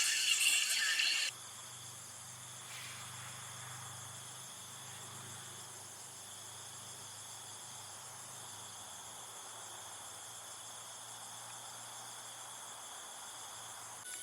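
Crickets and other insects chirring steadily, with a low hum underneath. A louder sound cuts off suddenly about a second in.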